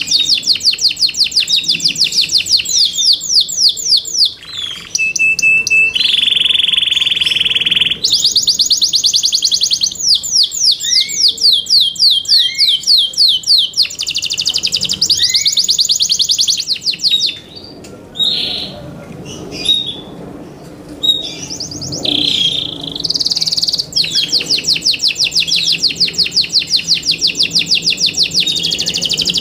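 Yorkshire canary singing: long, fast, high trills of rapidly repeated notes. About six seconds in there is a steady held note lasting about two seconds, and past the middle the song thins out for several seconds before the fast trilling resumes.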